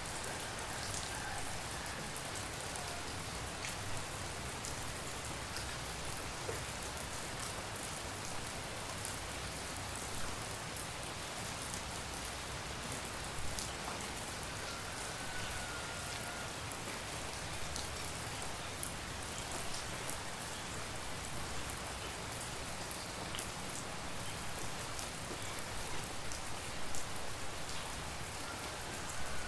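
Steady tropical rain falling, with a dense patter of individual drops and drips throughout. A few faint, brief high calls come through the rain now and then.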